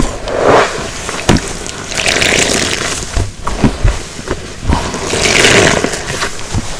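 Wet black waffle car-wash sponge soaked in detergent being squeezed by hand: squelching, with soapy water running out, in several swells.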